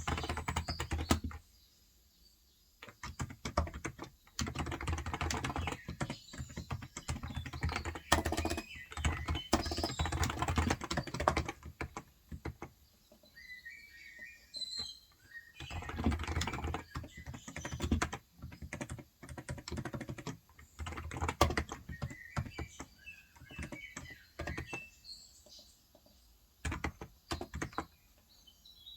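Typing in fast runs of keystrokes on a Cox Endeavour electrostatic capacitive (Topre-style) tenkeyless keyboard with light 35 g switches, with short pauses between bursts. Birds chirp faintly in the pauses.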